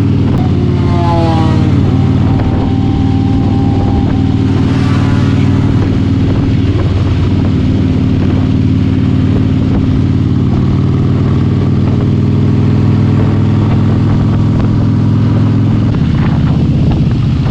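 Harley-Davidson motorcycle engine running steadily under way, with a brief falling note about a second in and a change in the engine note near the end.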